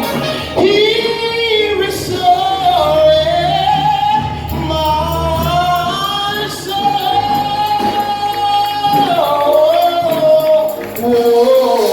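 Gospel song with instrumental backing: a solo voice holds long, drawn-out notes that slide from pitch to pitch, with one long steady note in the middle.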